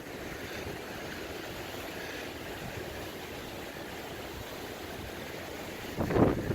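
Steady rushing wind, then a sudden gust buffets the microphone about six seconds in.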